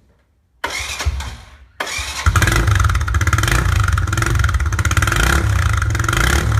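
Small single-cylinder engine of a Honda Cub-type step-through motorcycle starting about half a second in, then running with a loud, rapidly pulsing exhaust. The muffler has been drilled through to make the exhaust louder.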